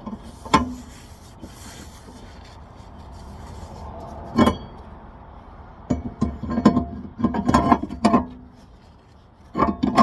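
Metal tools and parts being handled during brake work: a series of sharp clanks and clinks, clustered between about six and eight seconds in, with some rubbing.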